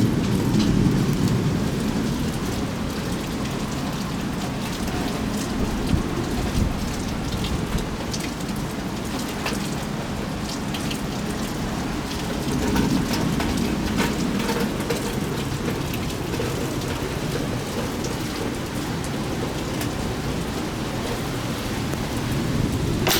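Heavy thunderstorm rain falling steadily, with scattered sharp drop ticks close by. Low rolling thunder swells near the start and again about halfway through.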